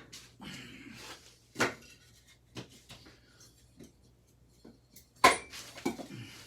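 Metal clanking and clinking as ceiling-fan parts and tools are handled, with two louder clanks, one about a second and a half in and one a little after five seconds, and lighter knocks between.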